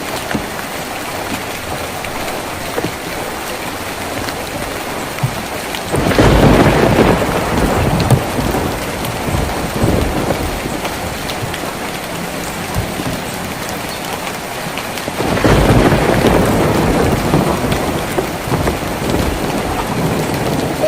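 Steady rain drumming on a tin roof, with two rolls of thunder, about six seconds in and again about fifteen seconds in, that swell up suddenly and fade over several seconds.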